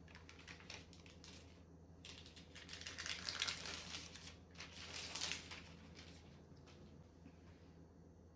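Faint rapid clicking and rustling in two bursts, one starting about two seconds in and a shorter one around five seconds in.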